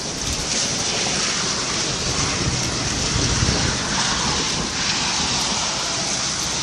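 Steady heavy rain falling during a thunderstorm, with a low rumble of wind on the microphone.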